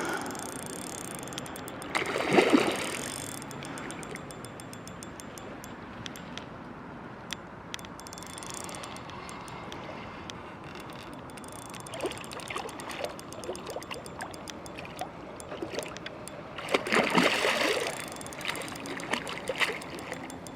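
Hooked fish splashing at the water's surface while being played on the line, with a loud splash about two seconds in and another near the end, and lighter splashing in between. Under it there is a steady hiss of background noise and scattered small clicks.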